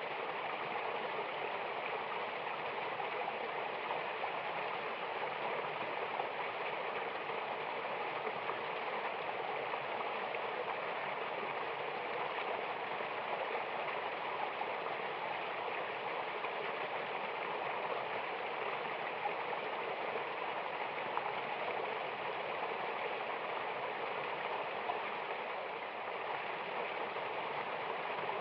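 Mountain waterfall and river water rushing steadily: an even hiss without a deep rumble and without any change or break.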